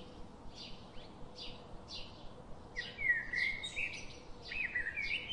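Birds calling: a short high chirp repeated about twice a second, with louder gliding calls about three seconds in and again near the end.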